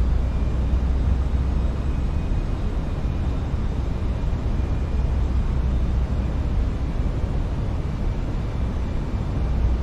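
Steady flight-deck noise of an Airbus airliner on final approach: a constant low rumble of airflow and engines, with faint steady tones above it.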